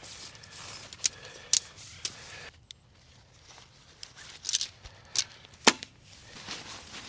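A series of about six sharp clicks and knocks, with soft rustling between them.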